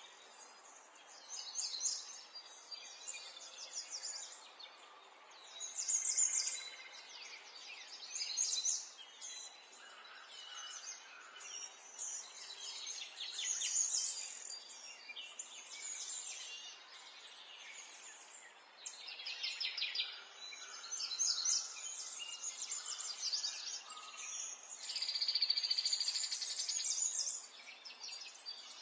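Songbirds singing, many short chirping and warbling phrases overlapping one after another, with a long rapid trill near the end.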